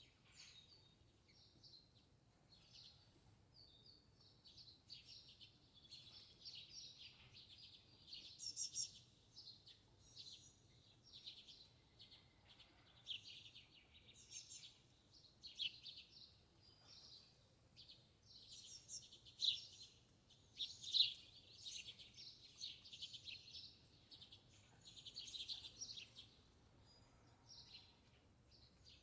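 Birds twittering and chirping in quick, high-pitched bursts, the song growing busier and louder partway through.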